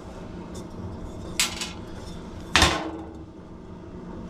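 Two metal clanks from the forge's blower fan parts being handled as it is unbolted and taken apart; the second, about two and a half seconds in, is louder and rings briefly.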